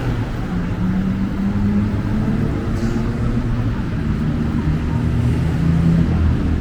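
City road traffic: vehicle engines running close by, a steady low hum whose engine tones shift as vehicles move.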